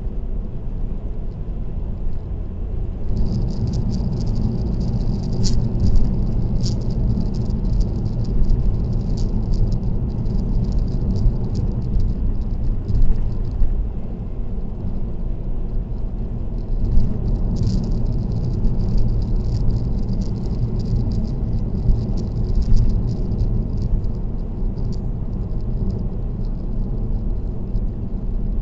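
Car road noise at expressway speed, a steady low rumble of tyres and engine heard from inside the car. Over it runs a fast, irregular high-pitched rattling, busiest from about three seconds in to fourteen and again from about seventeen to twenty-three seconds.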